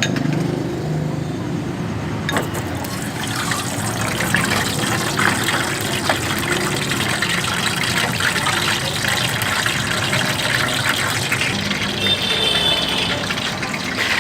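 Boiled eggs frying in hot oil in a pan: a steady sizzle full of fine crackles, the oil bubbling up hard around them, denser from about two seconds in.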